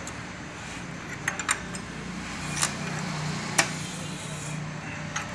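Metal hand tools clinking against engine parts, a handful of sharp scattered clicks over a steady low hum.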